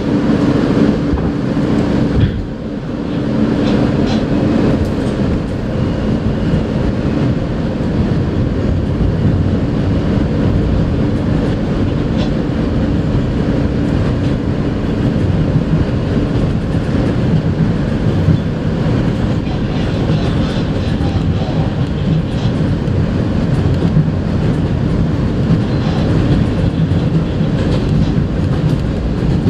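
Inside an R160A New York subway car under way: steady rumbling running noise of the train with wheels clicking over the rail joints. A steady hum sounds for the first couple of seconds, and the noise dips briefly about two seconds in.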